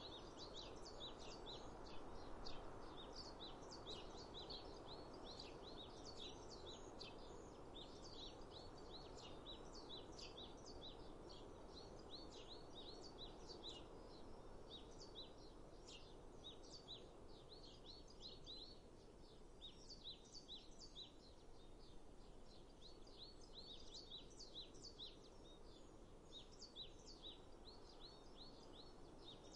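Faint birdsong: many short, high chirps in quick succession from several birds, over a soft, steady background hiss.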